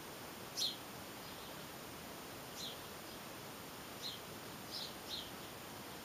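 A small songbird chirping: about five short, high, falling chirps spread through, the first and loudest about half a second in, over a steady hiss.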